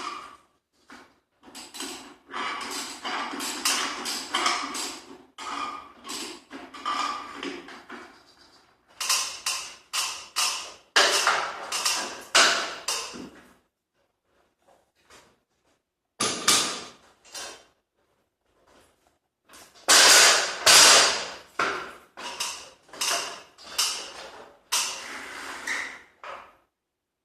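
Irregular knocking and clattering in clusters of hand work, with two short quiet pauses in the middle.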